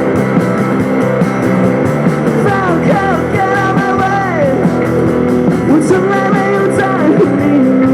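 Rock band playing live, a loud instrumental stretch with sliding melodic lines over the steady band.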